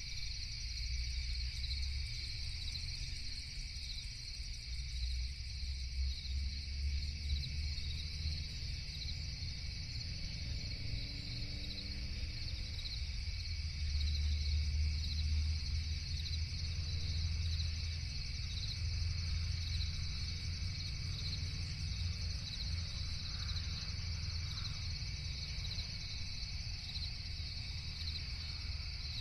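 Crickets chirping steadily in a night chorus, in two high pulsing layers, over a low steady rumble.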